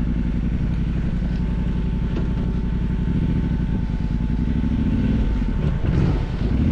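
Motorcycle engine running steadily with a low rumble, picking up slightly about five seconds in.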